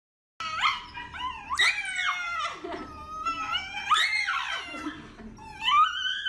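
A dog whining and howling: a string of high cries that slide up and down in pitch, starting about half a second in.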